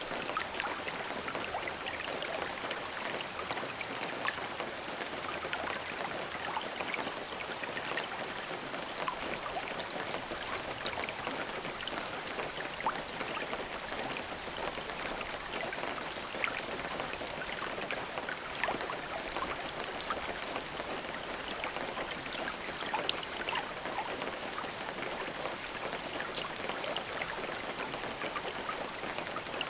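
Steady rain falling, an even hiss full of small individual drop ticks, with no thunder.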